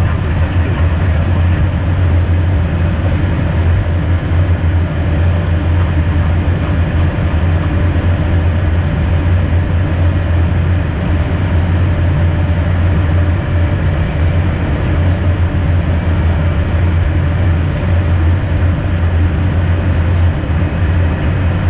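Cabin noise inside an Embraer Phenom light jet's cockpit in flight: an even rush of airflow and engine noise over a strong, steady deep hum.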